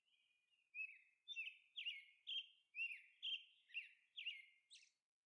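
Faint series of short bird chirps, about two to three a second, each a quick high note that falls away.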